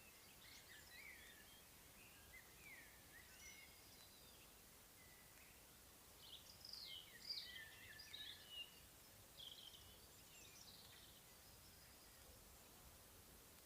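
Faint birdsong: short chirps and gliding warbled notes, busiest in a burst of song from about six seconds in, over a quiet steady background hiss.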